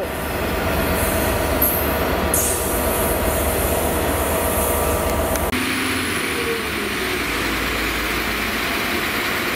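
A loaded freight train's wagons roll away over the track in a steady rumble, with brief high wheel squeals. About halfway through, the sound switches abruptly to a Class 197 diesel multiple unit running past.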